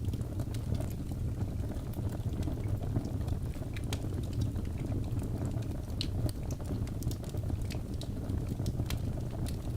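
Wood fire burning in a fireplace: a steady low rumble and hiss of the flames, with many small sharp crackles and pops from the burning logs, scattered irregularly throughout.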